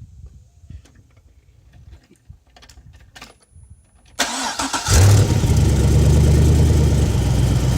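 A stock 6.0-litre LS2 V8 being started: a few faint clicks, then about four seconds in the starter cranks. The engine catches within a second, flares up in revs and settles into a steady idle.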